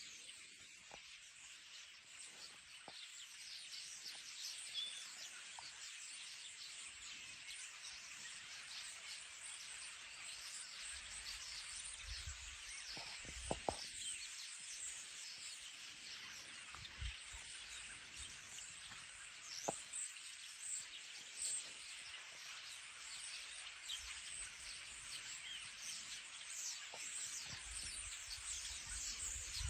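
Birds chirping continuously: a dense, high twittering of many short calls, with a few brief low thumps.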